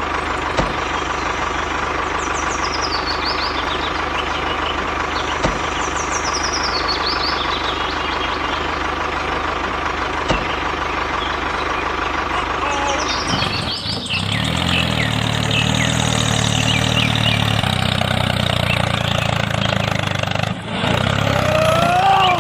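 An engine runs steadily. About two-thirds of the way through it changes to a deeper, stronger running note.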